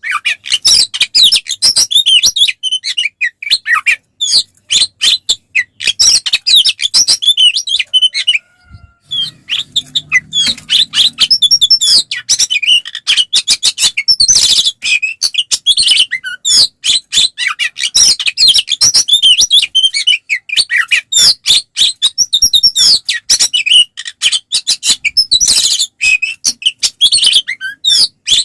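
Oriental magpie-robin in full, non-stop song: rapid, varied whistles and chattering notes with one short break about eight and a half seconds in. It is the bird's aggressive fighting song, used to provoke other magpie-robins.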